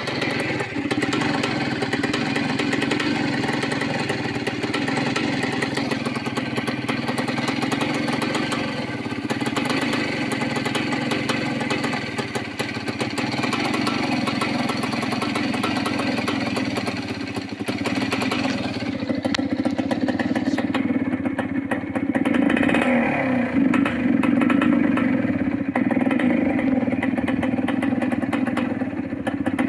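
1981 Yamaha YZ 250 motocross bike's two-stroke single-cylinder engine running continuously; about two-thirds of the way through the high end drops away and the lower engine note grows stronger.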